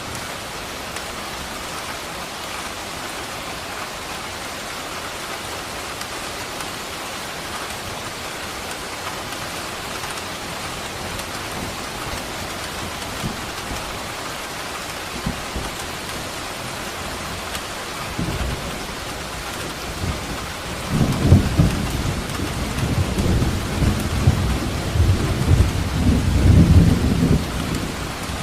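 Steady heavy rain falling, with a long roll of thunder in the second half: a low rumble begins about two-thirds of the way in and swells into loud rolling thunder before easing near the end.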